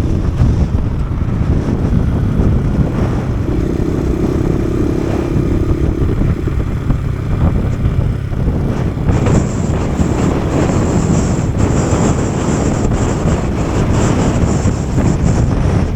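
Kawasaki KSR110's small single-cylinder engine running under way, mixed with heavy wind buffeting the microphone in strong wind. A thin high whine comes in about nine seconds in and stays.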